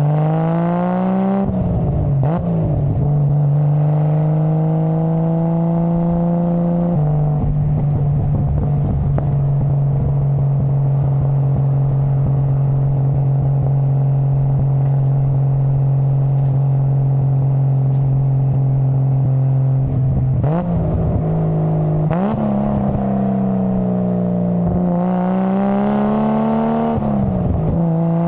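Nissan Skyline GT-R R33's RB26DETT twin-turbo straight-six running under way: revs rise and drop sharply at a gear change about two seconds in, hold steady for a long stretch with a slight step down around seven seconds, then climb and fall again twice near the end.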